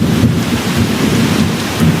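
Steady rain hiss under a low rolling rumble of distant thunder, which eases off and then swells again near the end.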